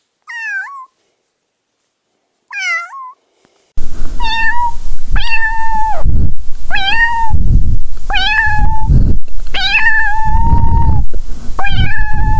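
Domestic cat meowing: two short, quieter meows, then a run of six louder, drawn-out meows about a second apart over a loud low rumble.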